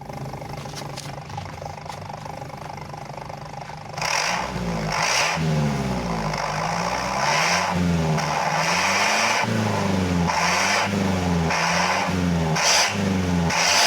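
Suzuki APV's four-cylinder engine through an aftermarket exhaust, idling steadily for a few seconds, then blipped repeatedly. The revs rise and fall about ten times, louder than the idle.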